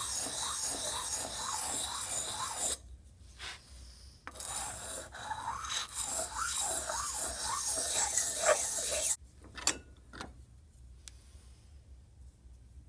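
A hand file rasping back and forth over the metal of an antique grass trimmer, about three strokes a second. It pauses briefly about three seconds in, resumes, and stops about nine seconds in, followed by a couple of light clicks.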